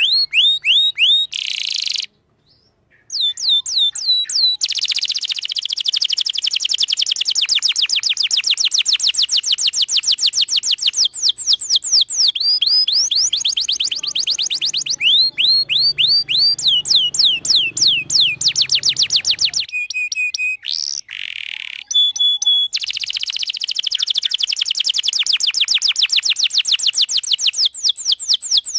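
Domestic canary singing a long, fast song: rapid trills of repeated swooping notes. There is a short break about two seconds in and another brief pause around twenty seconds.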